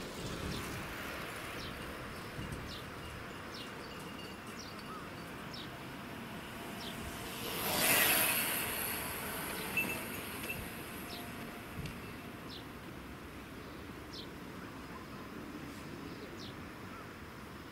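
A train running past, its sound swelling to the loudest about halfway through and then fading, over a steady outdoor noise with short high-pitched chirps scattered throughout.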